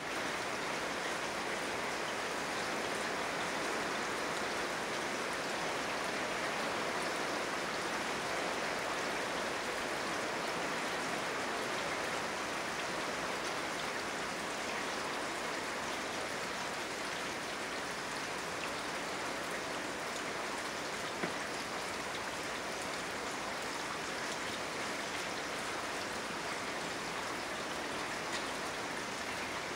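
Steady rain falling, an even hiss of drops without let-up, with one brief sharp tick about two-thirds of the way through.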